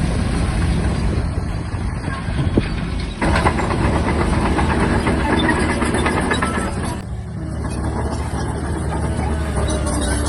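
Shantui DH17-C3 bulldozer's diesel engine running steadily, getting noisier about three seconds in and easing briefly near seven seconds.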